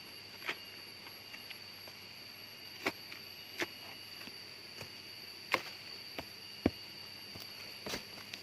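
A steady high-pitched insect drone, with about nine sharp, irregular knocks and snaps on top, the loudest two about five and a half and six and a half seconds in.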